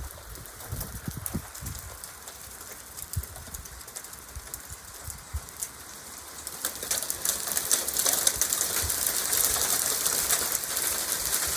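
Nickel-sized hail striking the ground and nearby surfaces as many small sharp ticks over a hiss of rain, sparse at first and then growing heavier and louder about two-thirds of the way in.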